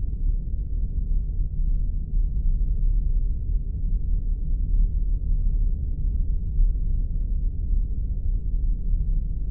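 Spaceship sound effect: a steady, deep rumbling drone with its sound concentrated in the low end, like the engine hum inside a starship.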